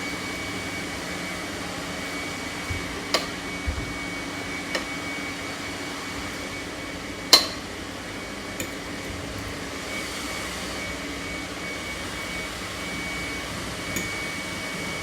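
Steady kitchen hum with a thin high whine, broken by a few light taps and clicks of a fork against the plate while banana is mashed. The loudest tap comes about seven seconds in.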